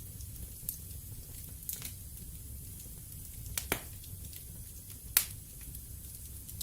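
Wood fire crackling in a fireplace: a low, steady rumble of burning with scattered sharp pops of the wood, the loudest a single crack about five seconds in.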